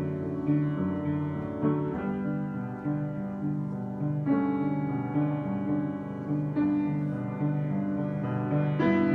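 Solo piano improvisation: a steadily repeating low bass figure under sustained chords, with fresh chords struck every couple of seconds.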